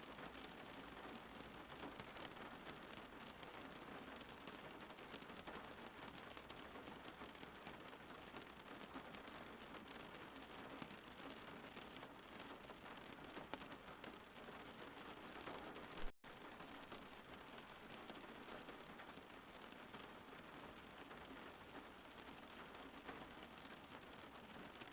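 Faint steady rain falling, an even hiss of drops. About sixteen seconds in there is one sharp click with a split-second dropout in the sound.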